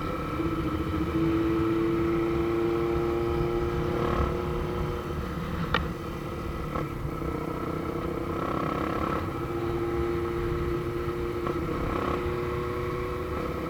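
Motorcycle engine running at steady cruising revs under a constant low rumble. The pitch is held level, the engine eases for a few seconds in the middle and then settles back to the same note, and there is one sharp click about six seconds in.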